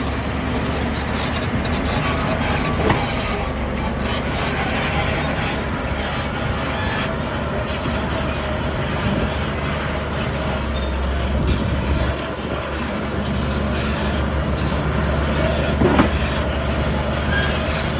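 Heavy diesel construction machinery running steadily with a deep engine drone, with a couple of short knocks, one about three seconds in and one near the end.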